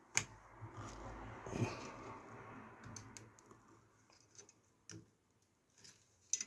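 Motherboard being handled and set into a PC case: a sharp click, a couple of seconds of scraping and rubbing as the board is moved into place, then a few scattered clicks and taps.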